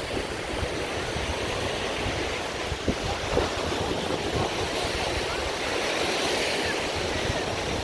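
Gulf surf washing onto the beach, a steady wash of waves, with strong wind buffeting the microphone in a low, fluttering rumble and a couple of brief bumps about three seconds in.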